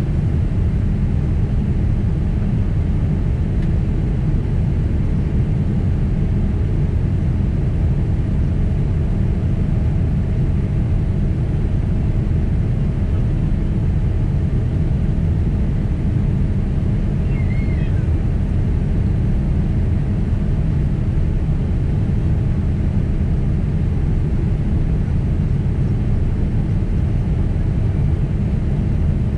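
Steady jet-engine and airflow rumble heard inside the passenger cabin of a twin-engine Boeing 767 airliner in flight, with a faint steady hum above it.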